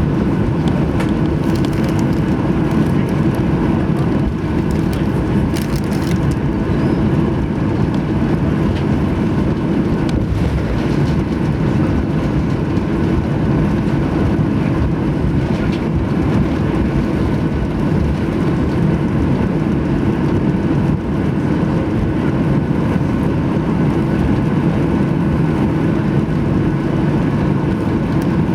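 Boeing 737-800 cabin noise: the CFM56 turbofan engines and airflow make a steady, loud roar with a constant low hum, heard from inside the passenger cabin.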